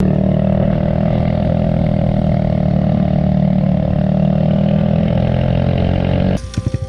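Kawasaki Z125 Pro's small single-cylinder engine running steadily at a constant pitch. About six seconds in, it cuts to the engine idling with a rapid, even putter.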